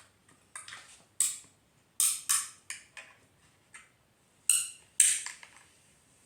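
A series of sharp clicks and clatters of small hard objects, with the loudest about two and five seconds in: Mentos mints being handled and knocked against a plastic Coke bottle and bowl while being fitted into the bottle's neck.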